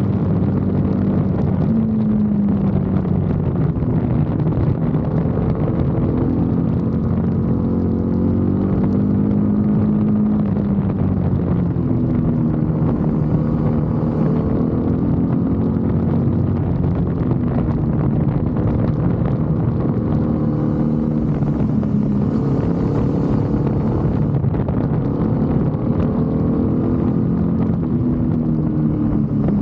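BMW F 850 GS motorcycle's parallel-twin engine running steadily, its pitch rising and falling slowly as the revs change. Stretches of hiss come in about halfway through and again later.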